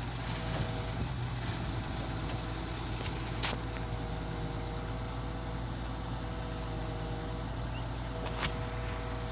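Excavator's diesel engine running steadily with a low drone and a steady whine, with two short sharp knocks, one a few seconds in and one near the end.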